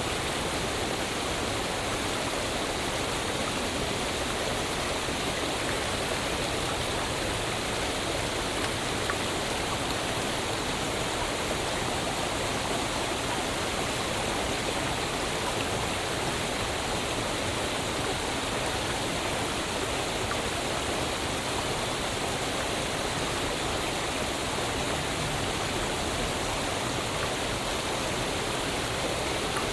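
Waterfall: water falling and rushing in a steady, even roar of white noise, with no breaks or changes.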